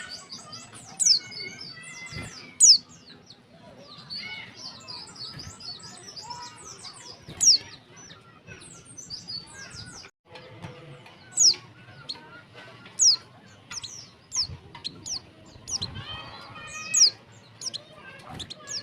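Female white-eye (pleci) calling: short, sharp, high chirps that slide downward, repeated throughout, with a few much louder ones several seconds apart, over fainter warbling bird chatter. It is a female's breeding-condition call, used to provoke male white-eyes into singing.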